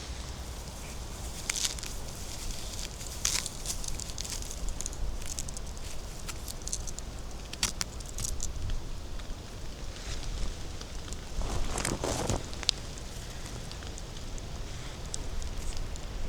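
Footsteps through forest-floor leaf litter and twigs, with scattered crackles and snaps and a louder rustle about twelve seconds in.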